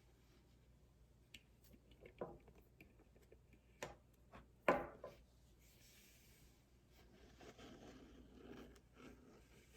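Hands handling items from an unboxing: a few light taps and knocks, the loudest about halfway, then soft rubbing and rustling.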